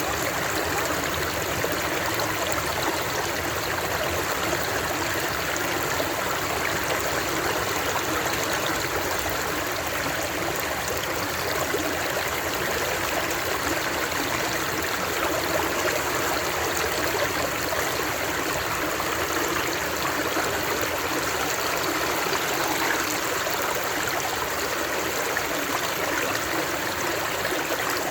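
Flowing water rushing steadily and evenly, a continuous stream-like wash with no breaks or changes.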